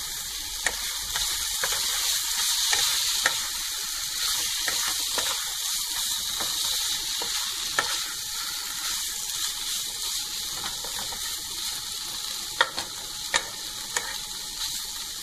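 Potatoes, peas and mushrooms in masala sizzling in a pan as a wooden spatula stirs them. The spatula scrapes and knocks against the pan now and then, with a few sharper knocks near the end.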